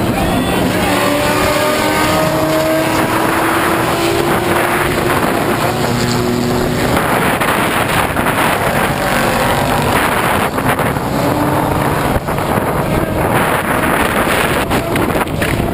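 Several 1450-class off-road race trucks' engines revving hard as they race around the track, rising in pitch in the first few seconds.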